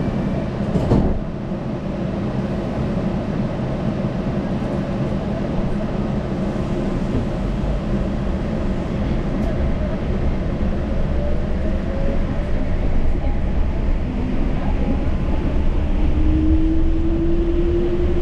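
Yurikamome rubber-tyred automated guideway train running with a steady rumble, and one sharp knock about a second in. From about ten seconds in, a motor whine rises steadily in pitch as the train speeds up.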